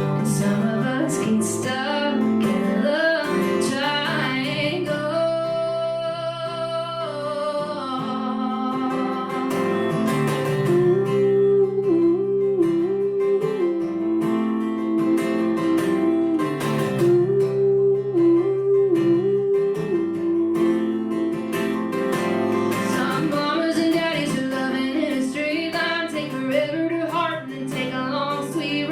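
A woman singing a song with acoustic guitar accompaniment, holding long notes with vibrato near the middle.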